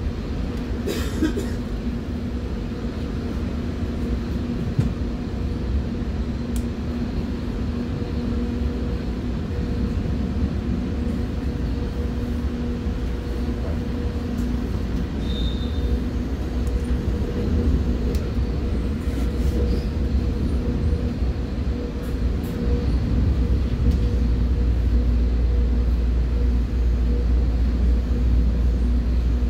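Commuter train running, heard from inside a passenger car: a steady rumble with a constant hum and a few faint clicks. The rumble grows louder over the last few seconds.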